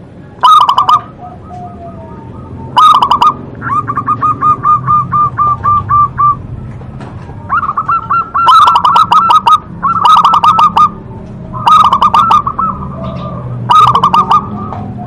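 Zebra dove (perkutut) cooing loudly, phrase after phrase: quick runs of short notes around the same pitch, with one long, evenly paced run of notes a few seconds in.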